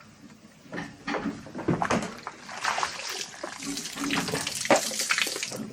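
Water running and splashing, with a few knocks in the first couple of seconds and some brief low voices underneath.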